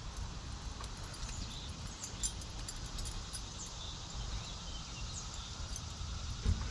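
Outdoor ambience: faint bird chirps and insect sounds over a steady low rumble, with a few light ticks.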